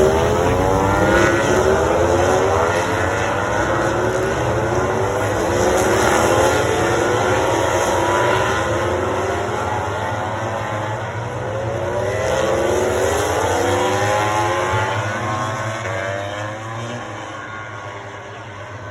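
Racing motorcycles accelerating hard past the track, several engines overlapping, their pitch climbing again and again as they run up through the gears. The sound fades over the last few seconds as the bikes pull away.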